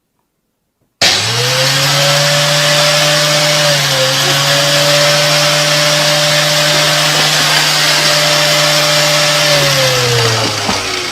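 An electric motor appliance switched on abruptly about a second in, running loud and steady with a hum under a rushing noise, then spinning down with a falling pitch near the end.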